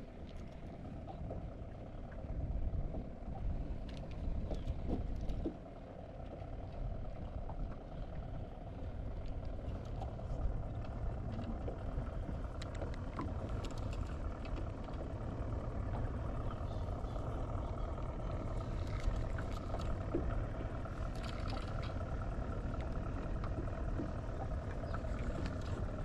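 Steady low wind and water noise around a fishing boat, with a few light clicks.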